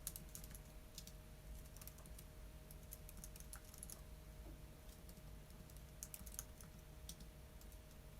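Computer keyboard typing, faint, in irregular bursts of keystrokes with short pauses between them.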